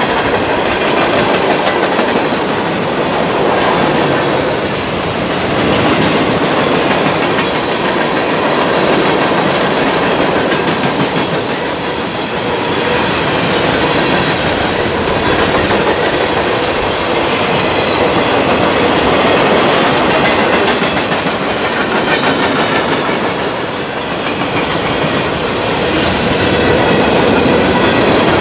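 Freight cars of a passing CSX mixed freight train rolling by close at steady speed: steel wheels running on the rails in a continuous loud rumble that swells and eases every few seconds.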